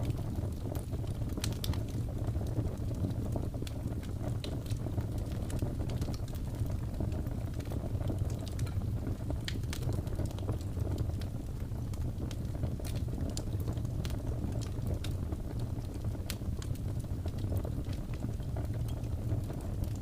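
Wood fire in a fireplace crackling: scattered sharp pops at irregular intervals over a steady low rumble.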